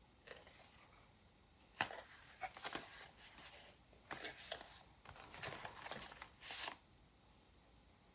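Paper pages, tags and cards of a handmade junk journal being handled and turned, giving short bursts of paper rustling and soft taps.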